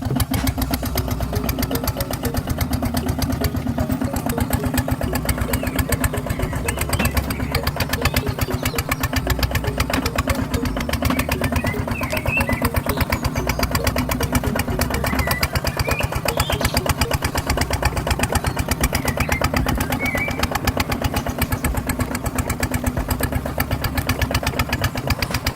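Mini RC tractor's small motor running steadily with a rapid, even chugging.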